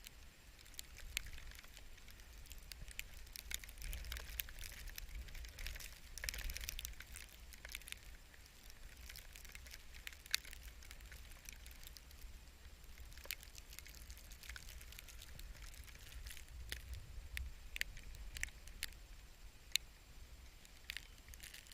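Snow crunching and crackling in many small irregular clicks, over a low rumble of wind on the microphone.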